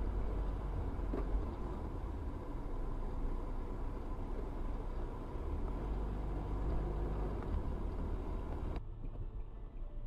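Vehicle running noise: a steady low rumble with a faint constant tone above it. It changes abruptly about nine seconds in, turning duller.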